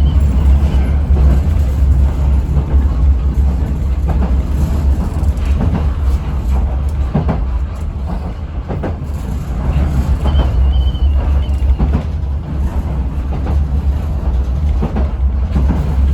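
Yoro Railway electric train running, heard from inside the car: a steady low rumble with occasional clacks of the wheels over rail joints.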